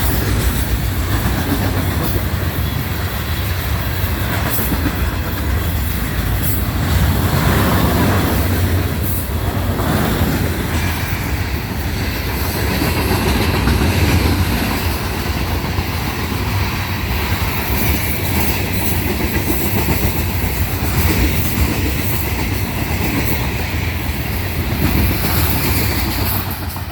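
Loaded rock cars of a Florida East Coast freight train rolling past close by: a steady low rumble with the clickety-clack of wheels over the rail joints and a light steel-wheel squeal.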